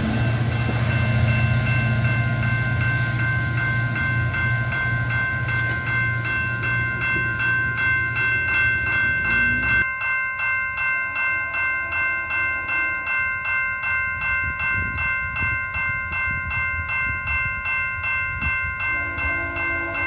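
A train passing a level crossing, its low rumble stopping abruptly about ten seconds in, while the crossing's warning bell rings steadily at about two strikes a second.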